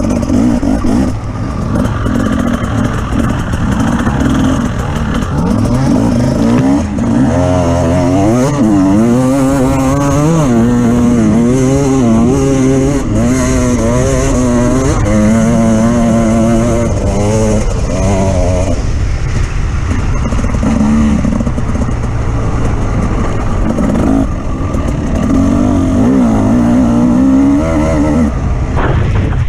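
Off-road vehicle engine running under changing throttle, its pitch rising and falling again and again as it is revved and eased off.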